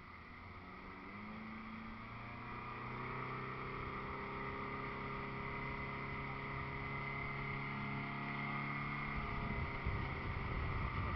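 Motorboat engine running at a steady pitch and growing louder as it comes closer, with a rush of water or wind noise building near the end.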